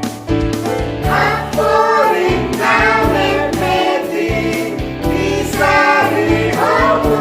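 Choir singing a Christian hymn over keyboard accompaniment; the voices come in about a second in after sustained keyboard notes.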